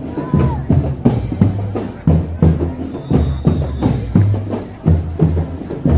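A marching drum band playing: bass drums and snare drums beat a steady, driving rhythm, with a brief high held note near the start.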